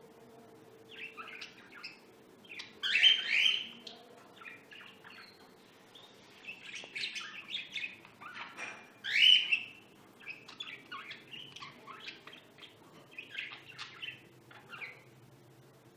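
Pet lovebirds chirping in a run of short calls, with two louder shrill calls about three and nine seconds in.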